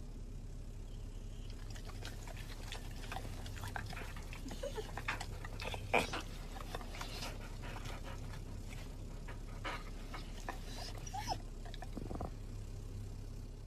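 A dog making brief, scattered small sounds, short pitched squeaks and clicks, over a steady low hum.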